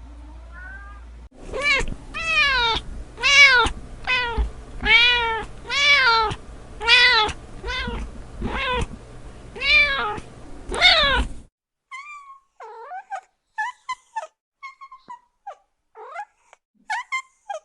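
A cat meowing over and over: about a dozen loud meows, each rising and falling in pitch, over a low steady hum. About two-thirds of the way in the recording cuts abruptly to a kitten's short, high-pitched mews.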